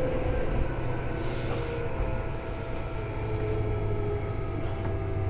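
Running sound inside a Tobu 9000 series electric commuter train car, heard from over the line breaker: a steady low rumble with a faint whine that falls slowly in pitch.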